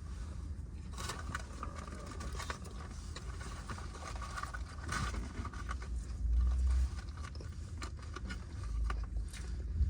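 Eating sounds, chewing with crinkling and scraping of food wrappers, over a steady low rumble, with two heavier low thumps in the second half.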